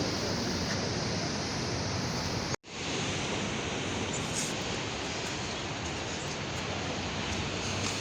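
Steady rush of Atlantic surf breaking on the shore. The sound drops out for an instant about two and a half seconds in, then carries on.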